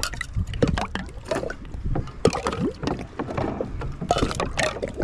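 Wheel nut covers clicking and knocking against each other as they are washed by hand, with water sloshing around them.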